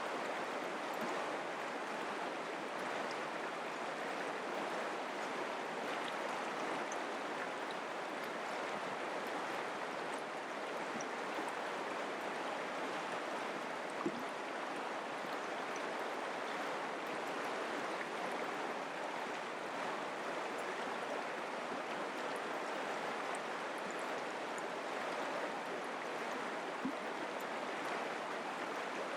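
Mountain creek water flowing steadily over rocks, an even rushing babble, with one brief sharp click about halfway through.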